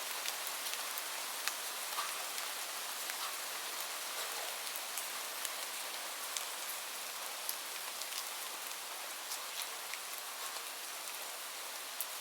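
Steady rain: an even hiss with many individual drops ticking sharply on a hard surface at irregular moments.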